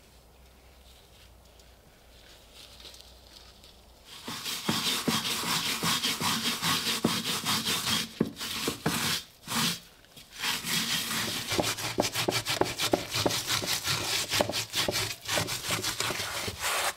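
Quiet for about four seconds, then rapid back-and-forth scrubbing or abrading on a rusty steel helmet, fast strokes with a couple of short breaks, as the rust is worked off.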